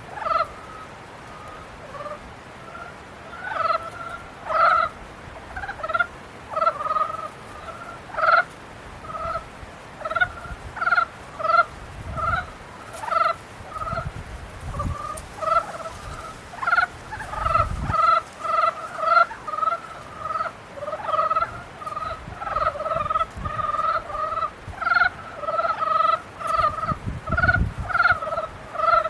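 A chorus of frogs calling in the breeding season: many short croaks, several a second, overlapping.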